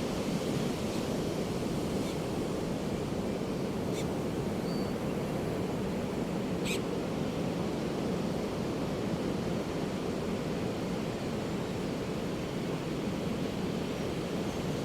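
Ocean surf breaking on a beach: a steady, continuous low roar of waves with no distinct separate crashes, and a couple of faint ticks.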